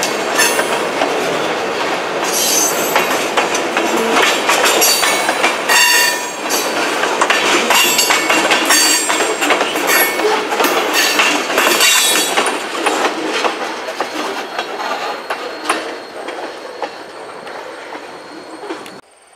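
Freight cars rolling past at close range: wheels clacking over rail joints, with brief high wheel squeals. The sound fades as the last car, a tank car, moves away, and cuts off abruptly just before the end.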